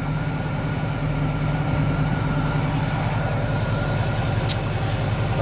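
1967 Chevrolet Camaro's 327 small-block V8 idling steadily, sounding nice and healthy. A short, sharp high click comes about four and a half seconds in.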